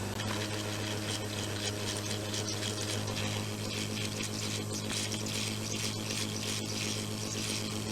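Hot air rework blower running steadily, a constant fan hum with airflow hiss, as it heats the edges of a surface-mounted processor to melt the solder and free it from the circuit board.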